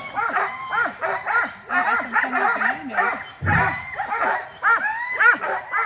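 A team of sled dogs barking and yipping in quick, overlapping high calls, several dogs at once.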